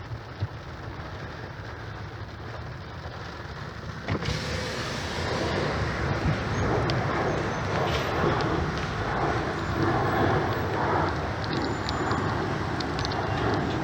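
Car in stop-and-go traffic in the rain, heard from inside: a muffled low rumble. About four seconds in, the sound suddenly opens up and grows louder, with the hiss of rain and traffic.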